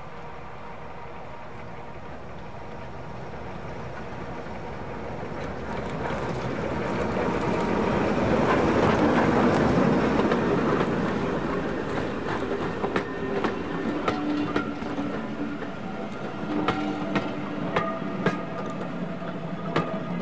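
Diesel-hauled passenger train passing. The locomotive noise builds to a peak about halfway through, then the carriage wheels click over the rail joints as the train rolls by.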